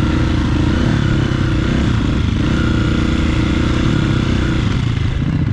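Dirt bike engine running steadily on a trail ride, its revs dipping briefly near the end.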